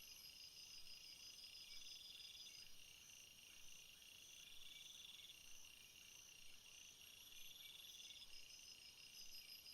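Faint jungle insect chorus: several crickets trilling at once, high-pitched and overlapping. One trill comes in phrases of one to two seconds with short gaps, over steadier, higher trills.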